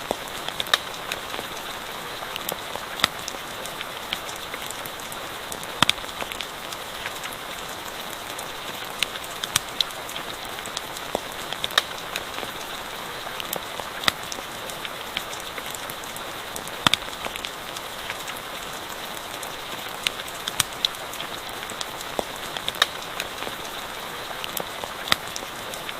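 Steady rain falling, with sharp irregular crackles and pops from a campfire every second or so.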